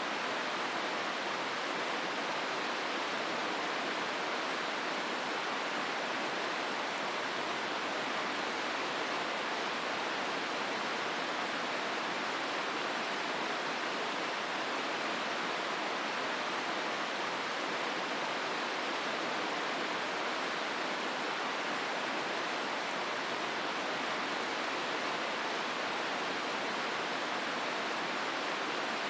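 Steady rushing of the Hozu River's flowing water in the gorge, an even, unbroken rush that stays the same throughout.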